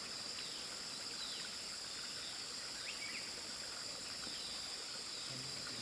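Steady high-pitched droning of insects, with faint short falling bird calls repeated every second or so.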